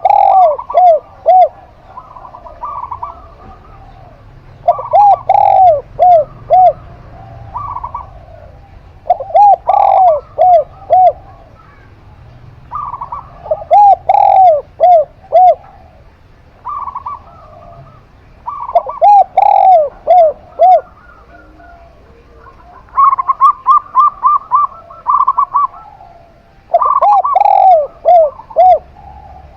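Zebra dove and spotted dove cooing, a phrase every four to five seconds. Each phrase is a run of four or five quick, bubbling coos, and near the end there is a faster, higher run of notes.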